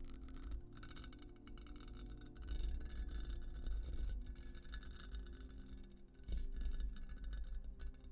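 Fingernails scratching across a textured glass surface in dense, uneven scratchy strokes, over soft background music.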